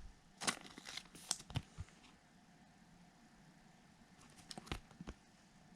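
Faint flicks and light snaps of baseball trading cards being flipped through by hand: a cluster of short clicks in the first two seconds, a quiet stretch, then a few more near the end.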